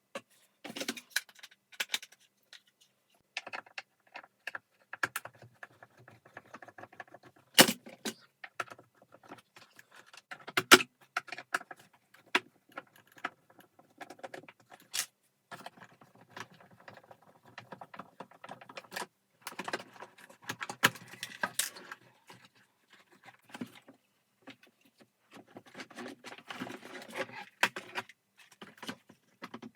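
Irregular clicks, knocks and rattling of vacuum cleaner parts being handled during disassembly, with two sharper knocks standing out about a third of the way in.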